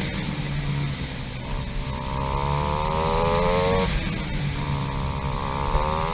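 KTM 500 EXC single-cylinder four-stroke dirt-bike engine under way, its revs climbing, dropping sharply about four seconds in, then climbing again, over a steady rushing hiss.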